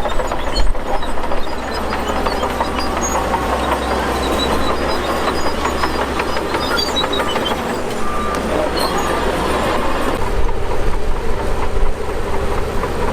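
Shantui DH17 crawler bulldozer pushing dirt: a diesel engine running steadily under a dense clatter of steel tracks, with short metallic squeaks.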